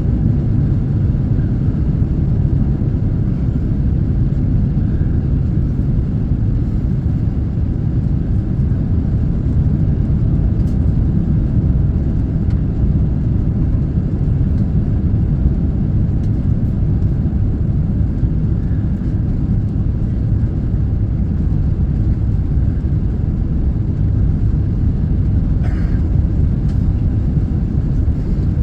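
Airliner noise during the approach to landing: a steady low roar of engines and rushing air that does not change.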